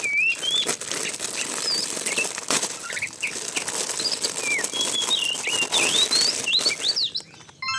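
Rustling and crinkling of a toy's packaging being opened by hand, with many small crackles and short high chirping calls over it.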